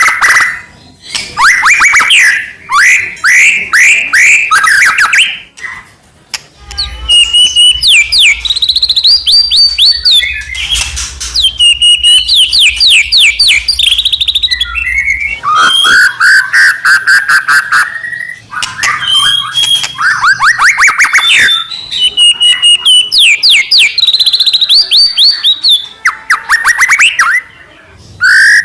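White-rumped shama (murai batu) singing at full volume: a continuous stream of varied whistled phrases and rapid trills, repeated in bursts with brief pauses between them.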